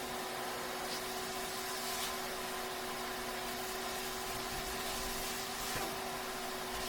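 A steady machine hum: a couple of constant low tones over an even wash of noise, with a few faint ticks.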